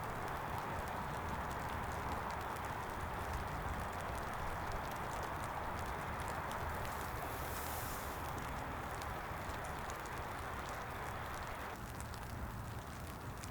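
Steady rain, an even hiss of drops with scattered small ticks, softening slightly near the end.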